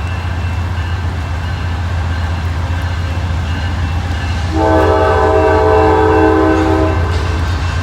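Freight train's diesel locomotive running at speed with a steady low rumble. About halfway, its air horn sounds one blast of about two and a half seconds, a chord of several tones, the loudest thing here.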